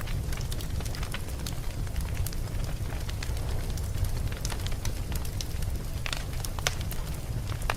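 Campfire crackling: irregular sharp snaps and pops of burning wood over a steady low rumble of the flames.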